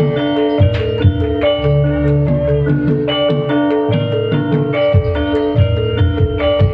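Live music played loudly: a quick, repeating melody of struck, ringing notes over a low bass line and drum beats.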